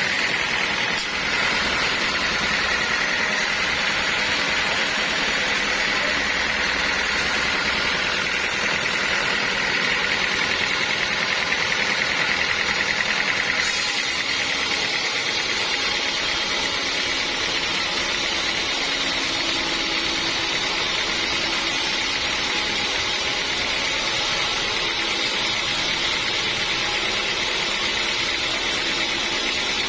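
Sawmill saw running steadily as it cuts through a large log, a constant machine noise with a high whine. About 14 seconds in the sound shifts, with more hiss in the high range.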